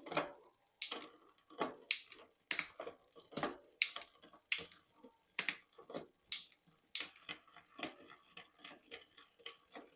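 Bicycle chain and rear derailleur clicking in a regular rhythm as the drivetrain is turned during a shifting test, about one click every two-thirds of a second at first and quickening in the second half. The chain is not running cleanly on the cassette, which the mechanic fears is a bent derailleur hanger.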